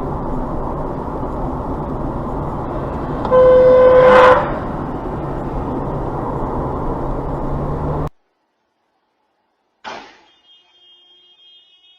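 A car horn honks once for about a second, over steady road and engine noise from a moving vehicle. The noise cuts off abruptly, and a single sharp knock follows about two seconds later.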